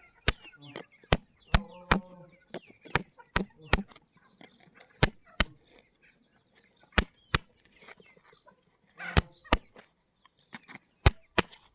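Stones clicking and knocking against each other as they are handled, in sharp, irregular clacks about two a second with a couple of brief lulls.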